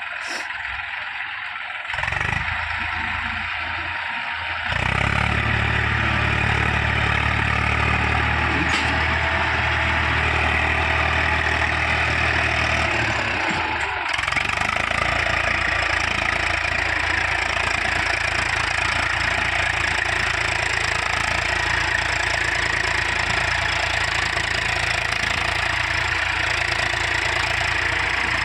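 Eicher 380 tractor's diesel engine running. It gets louder about two seconds in and again about five seconds in, changes tone about halfway through, then runs on steadily.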